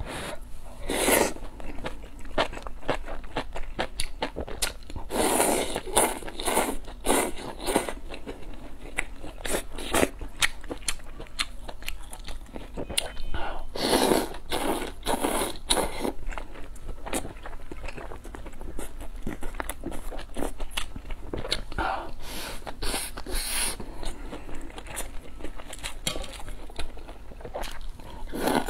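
Close-miked eating sounds: a person chewing spicy maocai with rice, with wet mouth sounds and crunchy bites. The bites come in clusters of sharp clicks.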